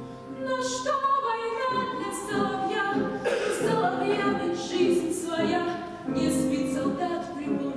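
A choir of voices singing a slow song, accompanied by piano.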